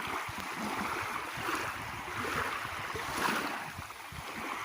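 Moving water washing and rushing, swelling about a second and a half in and again near three seconds in.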